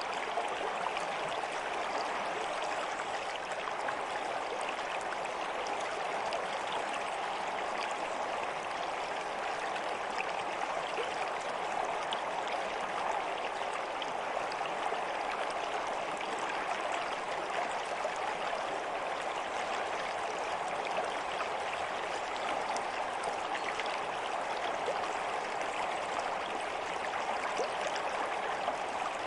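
Steady running water, an even rush with fine splashing and droplet ticks throughout.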